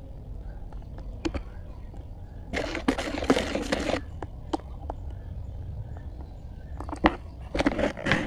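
Crunching and crackling: a burst of crunching about two and a half seconds in that lasts about a second and a half, a few sharp clicks, and another short run of crunches near the end, over a steady low hum.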